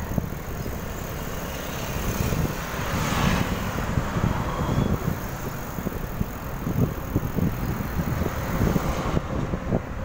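Wind buffeting the microphone while riding a bicycle, a steady fluttering rumble, with a louder rushing swell about three seconds in.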